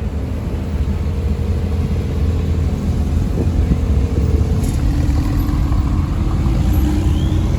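Car engine running steadily at low speed, its pitch shifting slightly about five seconds in.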